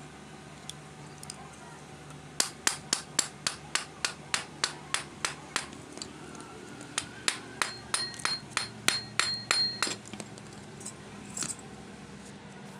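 Hammer striking metal in two runs of quick, sharp blows, about three to four a second. The second run's blows leave a ringing metallic note. The work is part of changing a washing machine motor's rotor and bearing.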